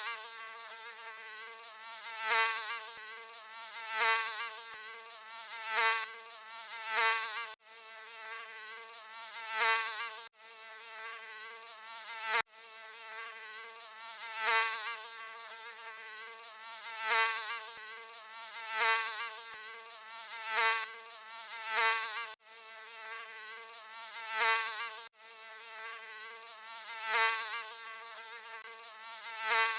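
Mosquito buzzing: a thin, high, steady whine that swells loudly and fades again about every two seconds, with a few abrupt brief breaks in the sound.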